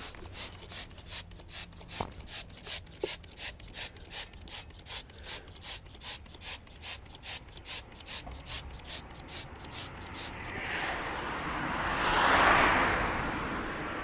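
Brush scrubbing a car wheel in quick, even back-and-forth strokes, about two and a half a second. Near the end a hissing rush swells and fades.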